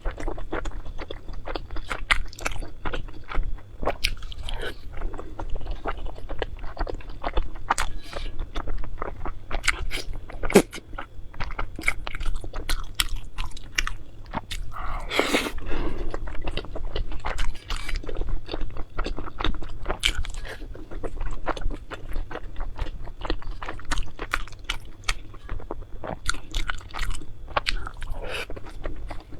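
Close-miked chewing and biting with dense, irregular crunching, as in a mukbang. One longer, noisier sound comes about halfway through.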